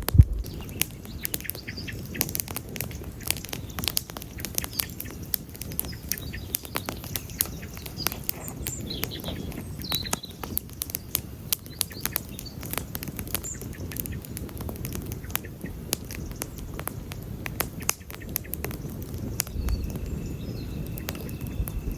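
Wood campfire crackling, with many sharp pops and snaps over a low rushing of the flames; one louder pop right at the start.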